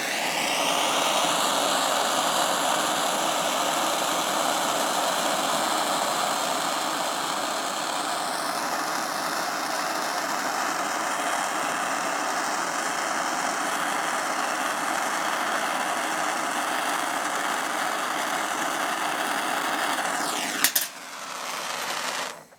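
Handheld gas torch burning with a steady hiss as it heats a copper pipe to melt a repair rod into a hole. The flame is shut off near the end.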